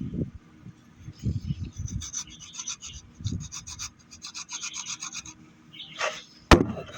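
Hand rasp or file scraping over an oak hammer handle in repeated rough strokes, shaping the wood. A single sharp knock comes near the end.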